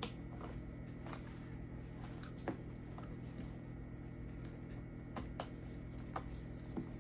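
Scattered light clicks and taps, about seven over several seconds, as a handbag's shoulder strap and its fittings are handled and attached, over a low steady hum.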